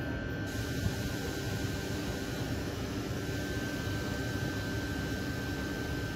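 Electric double-deck commuter train (TSR) approaching from a distance, heard as a steady low rumble and hiss with a faint steady high tone.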